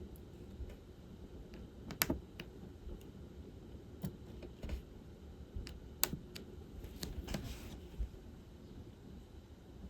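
Scattered small, sharp clicks and taps of a diamond-painting drill pen picking resin drills from a plastic tray and pressing them onto the canvas, with a brief scratchy rustle about three-quarters of the way through.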